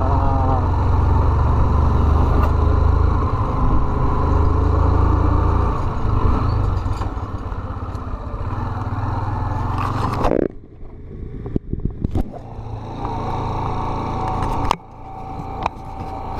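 Small 125 cc motorcycle being ridden, heard as a heavy low rumble of engine and wind through a sealed GoPro housing. About ten seconds in the noise drops away abruptly, leaving scattered knocks and clatter over a lower rumble.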